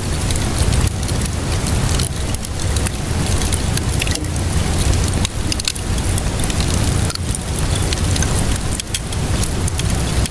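Wood fire crackling with many sharp pops and snaps, over a steady low rumble and the even hiss of rainfall.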